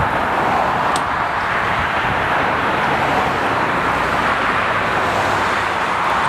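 Steady road traffic noise, cars going by on the road beside the boat, with no break in it.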